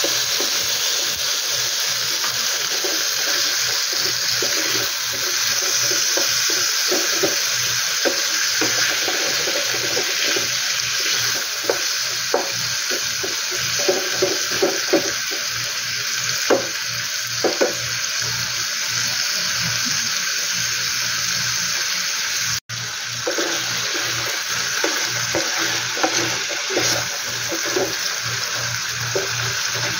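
Chopped tomatoes, onion and garlic sizzling in oil in a pan with a steady hiss, while a wooden spatula stirs them, scraping and knocking against the pan now and then. The sound cuts out for an instant about 23 seconds in.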